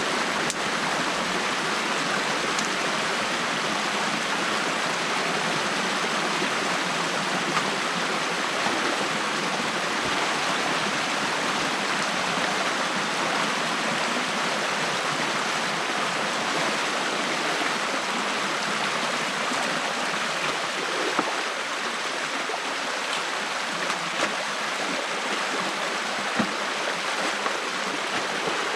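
Stream water rushing steadily through a breach in a beaver dam, with a few light knocks.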